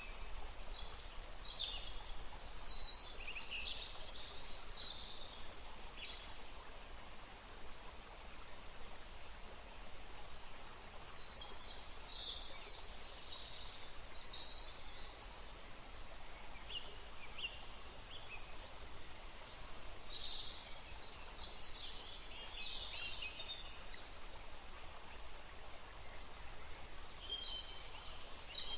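Wild birds singing in bouts of a few seconds, quick high-pitched notes separated by pauses, over a steady outdoor background hiss.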